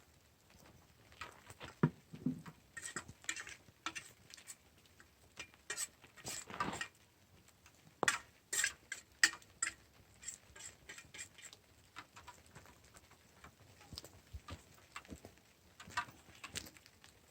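Cutlery clinking and scraping on a plate during a meal: irregular light clicks with a few longer scrapes, loudest around two, six and eight seconds in.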